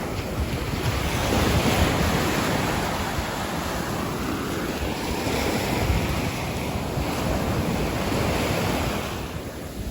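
Gulf of Mexico surf breaking and washing up the beach, a steady rushing that swells and eases, with wind buffeting the microphone.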